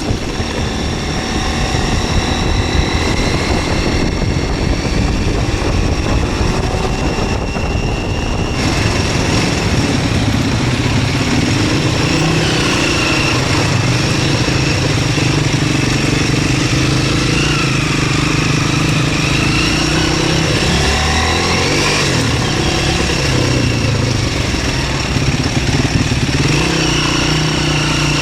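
MZ 125 SX's single-cylinder four-stroke engine running under way. The revs rise and fall with gear changes and throttle, climbing in a long sweep about twenty seconds in, over a steady rush of riding noise.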